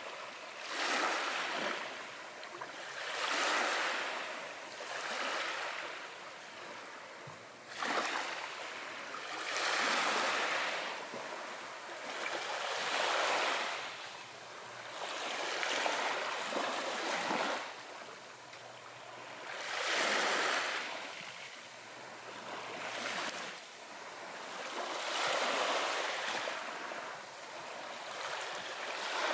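Small waves breaking and washing on a beach, each swell rising and falling away every two to three seconds, a few arriving with a sharper crash.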